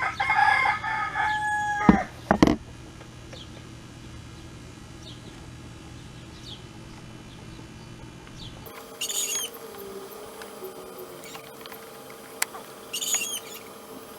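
A long crowing bird call in the first two seconds, held on a steady pitch and falling off at the end, followed by two sharp knocks. Later, two short high chirps.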